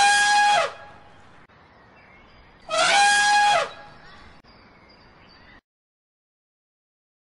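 Elephant trumpeting twice, each call about a second long and held at a steady pitch, the second about three seconds after the first.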